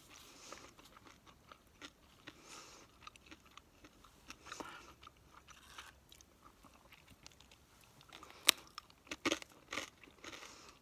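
A person chewing food right up close to the microphone: soft wet chewing with small mouth clicks. About eight and a half seconds in comes one sharp, loud crunch, followed by several more crunchy bites near the end.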